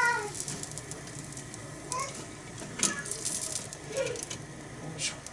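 Intermittent sharp clicks and crackles from cooking over a small wood fire: okonomiyaki on a thick iron mini griddle, with a couple of louder clicks near the middle and end, and a few faint bird chirps.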